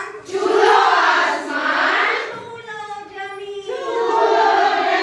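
A group of women's voices chanting lines of a poem in unison, in two long drawn-out phrases with a short break between them.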